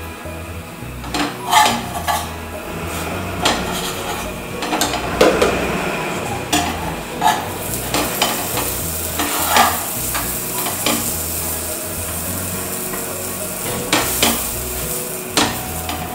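Pav bread rolls frying in butter on a flat tawa griddle: a steady sizzle, with a metal spatula scraping and tapping on the pan at irregular moments as the rolls are pressed and turned.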